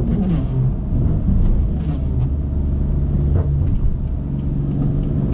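BMW F80 M3's S55 twin-turbo inline-six running through catless downpipes, a single mid-pipe and an open valved axle-back, with a deep exhaust drone while driving. The revs fall right at the start, then hold steady.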